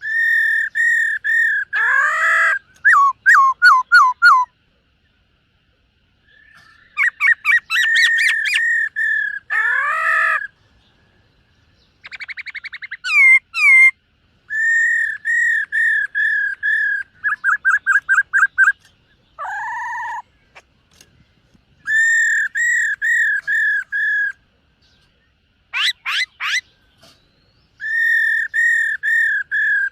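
Black-throated laughingthrush singing: loud, clear whistled phrases of evenly repeated notes, mixed with quick sweeping notes and short trills, with brief pauses between phrases.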